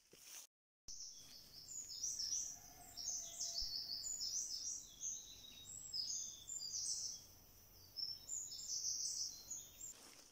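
Several songbirds chirping and singing, many short high notes in quick succession that overlap, beginning about a second in.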